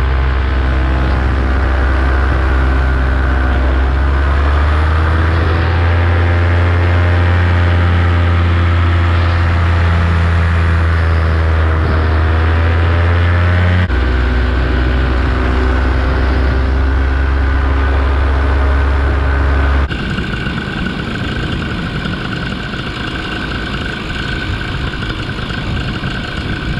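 Paramotor engine running steadily in flight, its pitch rising a few seconds in. About twenty seconds in the clear engine tone gives way to a rougher, noisier sound.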